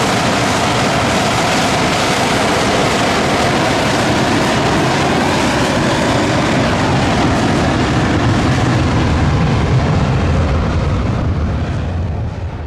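Jet aircraft engines running at high power: a loud, steady rush with a low rumble that grows stronger, then fades out near the end.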